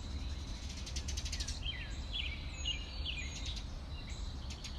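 Birds chirping: a quick run of ticks about a second in, then several short calls that slide down in pitch, over a steady low rumble.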